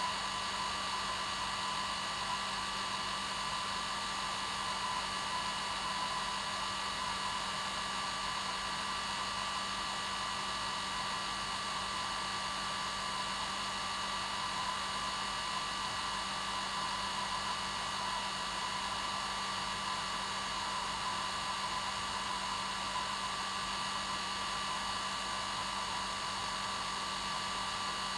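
Hair dryer running steadily: an unchanging rush of air with a constant hum and whine.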